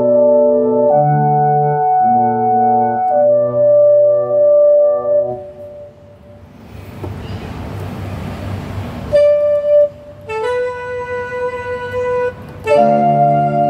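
Yamaha CK61 stage keyboard playing its sampled wind and brass voices. It starts with a run of held chords. About halfway through comes a swelling breathy hiss with no clear pitch, then a few single held notes, and chords again near the end.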